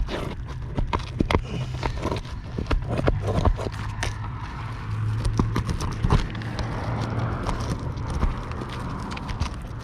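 Prying and scraping at an asphalt roof shingle, with many irregular clicks and knocks as it is worked loose and its nails are pried up. A steady low hum runs underneath.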